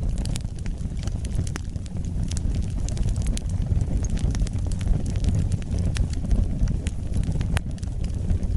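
Wood fire burning: a steady low rumble of flames with sharp crackles and pops at irregular moments, several each second.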